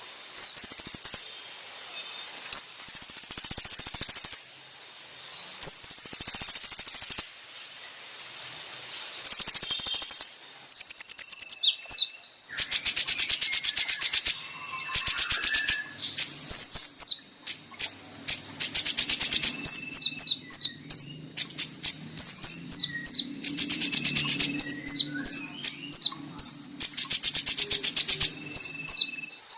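Konin (kolibri ninja) sunbird song: loud bursts of high, very rapid trills and sharp chirps, each burst about one to two seconds long, separated by short pauses.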